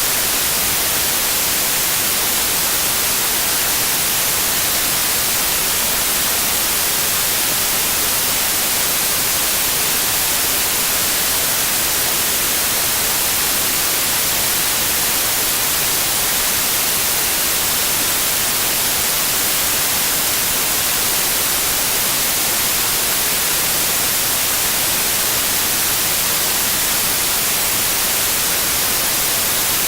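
Steady, unchanging white noise: an even hiss with the most energy in the high frequencies.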